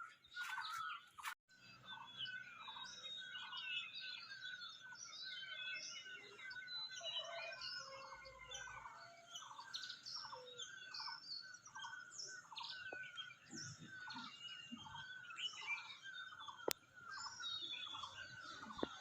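A chorus of many small birds chirping, with one bird repeating a short falling note over and over, about one and a half times a second.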